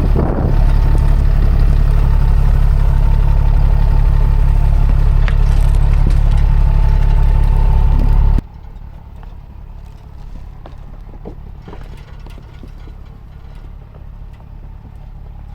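A truck engine running steadily at low speed, a loud low rumble with a faint steady whine over it. About eight seconds in it drops abruptly to a much quieter low rumble with scattered small clicks.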